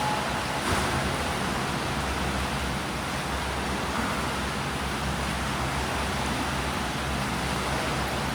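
Steady splashing and washing water of swimmers doing breaststroke drills in a swimming pool, an even rushing noise with no break.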